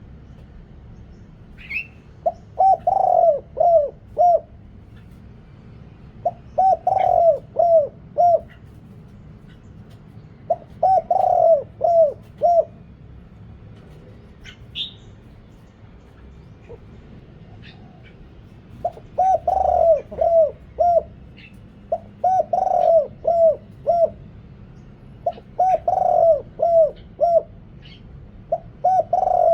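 Spotted dove cooing: a phrase of about five low coos repeated seven times with pauses between. Faint high chirps come in between the phrases.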